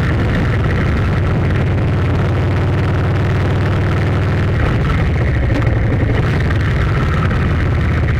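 A steady, loud engine drone with a low, even hum that does not change.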